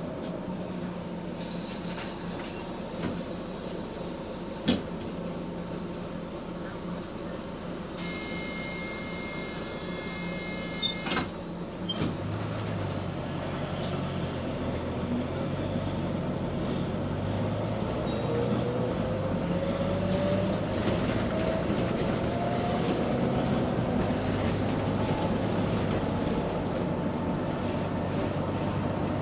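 Bus engine running inside the passenger cabin, with a few sharp knocks and an electronic beep lasting about three seconds. About twelve seconds in, the engine note rises and a whine climbs steadily in pitch as the bus pulls away and accelerates.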